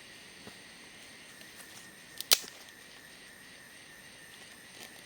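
A single sharp crack of wood about two seconds in, with a smaller tick just before it, over a steady high drone of forest insects.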